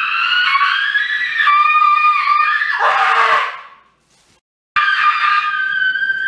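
Cat yowling: long, drawn-out wailing calls that slide slowly in pitch. They break off about four seconds in and start again a moment later.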